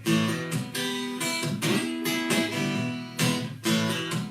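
Acoustic guitar strummed in a steady rhythm, an instrumental fill between the verses of a live country song.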